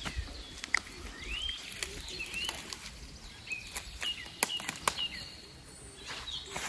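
Small birds chirping outdoors, short rising calls repeated every second or so, with a few sharp clicks in between.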